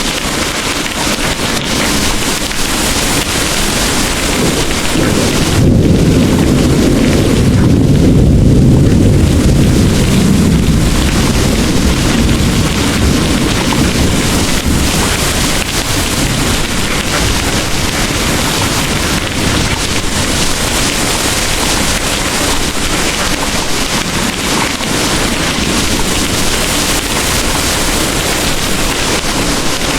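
Heavy rain pouring with a steady hiss. About five seconds in, a low roll of distant thunder swells and rumbles for several seconds, then fades back under the rain.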